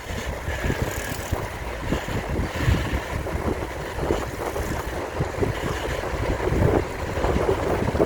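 Wind rushing over the microphone and road noise while riding a bicycle, with irregular low gusts throughout.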